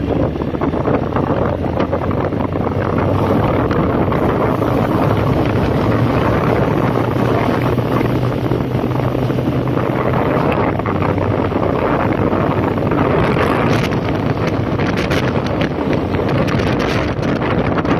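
A 2005 Honda CB1300's inline-four engine running steadily under way, mixed with heavy wind noise on the microphone.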